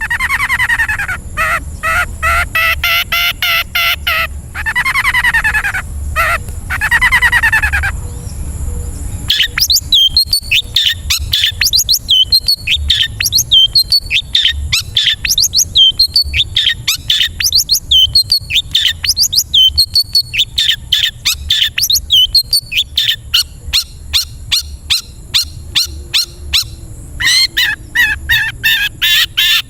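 Long-tailed shrike (cendet) song. It opens with several drawn-out squeaky calls that rise and fall, then breaks into a rapid series of short sharp chip notes, about three or four a second, which turn into a faster, harsher chatter near the end.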